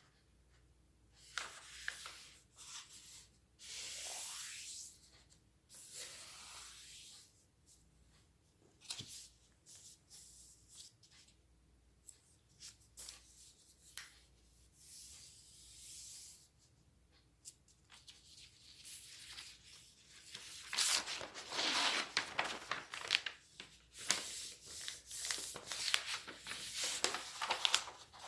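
A sheet of origami paper handled and folded by hand: soft, separate swishes as the paper slides and bends, then a denser run of crinkling and crackling in the last third as it is creased.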